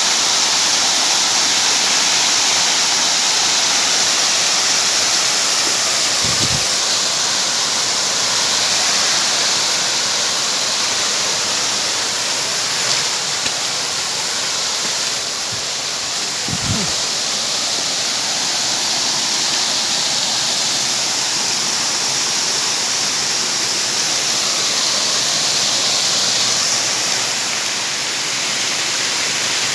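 Rain falling steadily, an even hiss of water, with two brief low thumps about six and sixteen seconds in.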